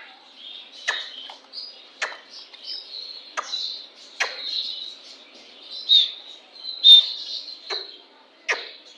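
Captive birds chirping and chattering in a steady high twitter. Short sharp notes stand out about once a second.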